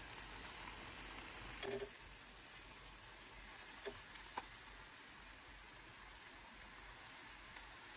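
Faint, steady sizzle of vegetables and egg frying in a non-stick pan, with a few light clicks of a utensil against the pan.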